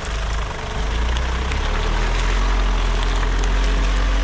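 Ford Ranger pickup driving through a boggy swamp on mud-terrain tyres: engine running under load with the tyres churning through mud and water, getting louder about a second in.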